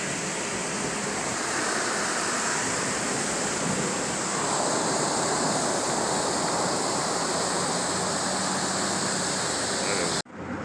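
Steady rushing water of a waterfall, cutting off suddenly near the end.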